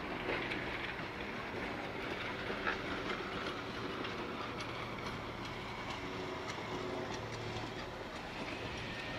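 Passenger coach train rolling along the track: a steady running noise of wheels on rail, with scattered clicks from the wheels over the track.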